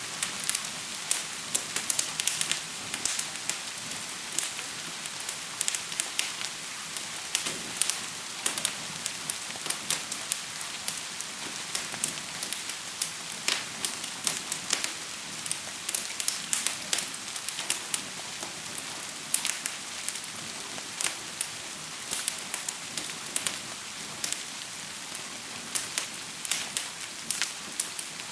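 Gentle rain falling steadily, mixed with a fire crackling: many irregular sharp pops and snaps over a steady hiss.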